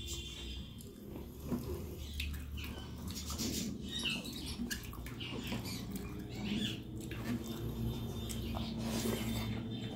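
Close-up eating sounds: wet chewing, lip smacks and mouth clicks of a person eating rice mixed with egg and potato by hand, with the squish of fingers kneading the rice. A faint low steady hum lies beneath.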